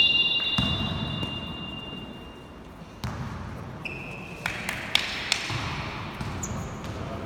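Gymnasium ambience during a basketball game: a basketball bouncing with a few sharp knocks about three to five seconds in. A high steady tone trails off over the first two seconds, and a short high tone sounds about four seconds in.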